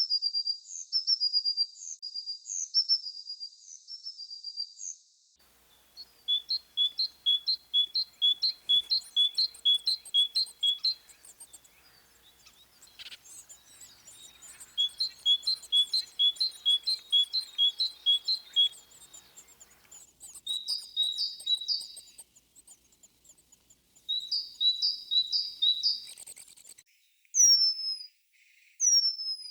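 Songbirds calling: series of short, high-pitched chirps repeated about two a second, in several bouts that start and stop abruptly, with a few quick falling whistles near the end.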